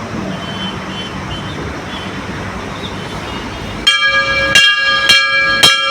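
Metal temple bell struck four times in quick succession, about half a second apart and ringing on between strikes, starting about two-thirds of the way in over a steady hum of traffic.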